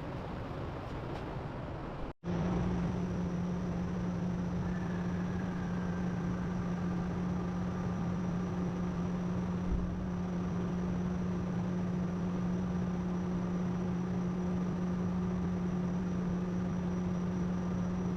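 Steady machine hum under a hissing background noise, broken by a sudden short dropout about two seconds in.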